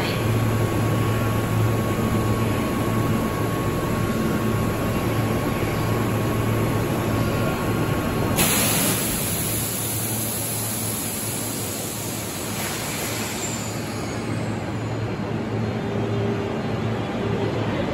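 Tobu Spacia limited-express electric train pulling out of the station platform: a steady low hum with running noise. About eight seconds in, a faint steady tone stops and a higher hiss comes in.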